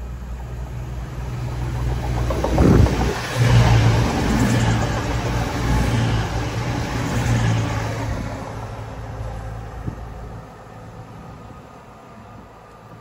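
Diesel train passing: a steady low engine hum with wheel and rail noise, swelling to its loudest a few seconds in, then fading away over several seconds.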